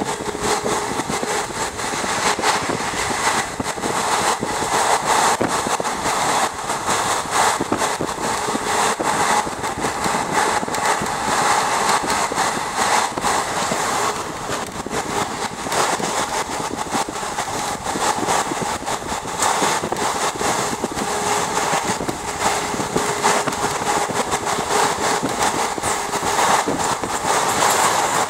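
Train running at speed, heard from on board: a steady rush of wheel and track noise with dense, rapid clatter.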